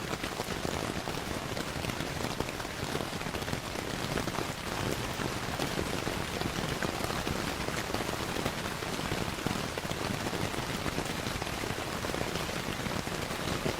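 Steady rain mixed with a crackling fireplace: an even hiss dotted with many small crackles and ticks.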